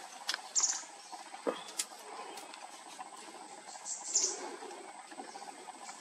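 Brief high-pitched calls of small forest birds, two louder ones about half a second in and about four seconds in, with a few sharp clicks over a quiet forest background.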